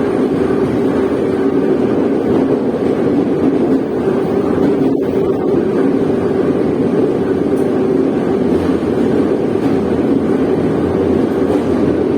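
Moscow metro train running at speed through a tunnel, heard from inside the carriage: a loud, steady rumble of wheels on rails and traction motors.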